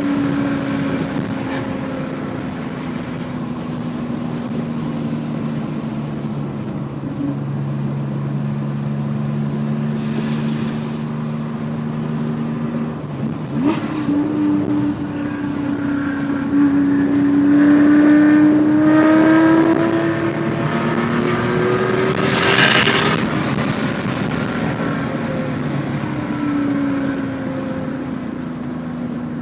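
1973 Porsche 911 2.4 S's air-cooled flat-six running through a SCART sports exhaust on the road. Revs sag slowly, jump up about halfway through, then climb steadily under acceleration. A short loud rush comes about two-thirds in, and the revs drop again after it.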